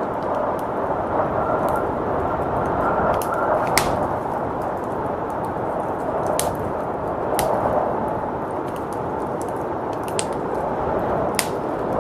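Wood fire crackling with scattered sharp pops over a steady rush of blizzard wind.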